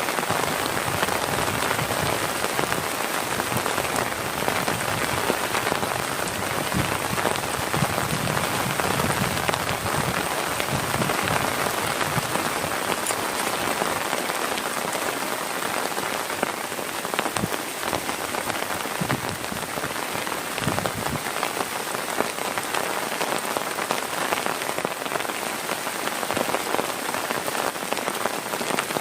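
Heavy rain falling steadily, a dense, even patter of many drops with no let-up.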